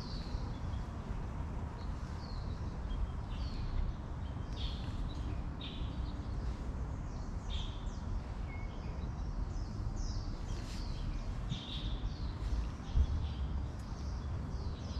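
Birds chirping: short, high calls repeated irregularly throughout, over a steady low background rumble.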